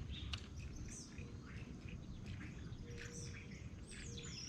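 Birds chirping: a scatter of short, high calls with a few quick sliding notes, over a low steady rumble.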